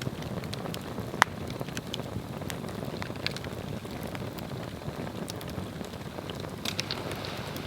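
Swedish torch log fire burning: a steady low rush of flame with scattered sharp crackles and pops, one louder pop about a second in.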